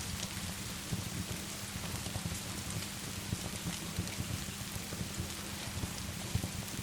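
Steady rain falling, with a fireplace crackling: dense irregular patter and a few sharp, scattered pops.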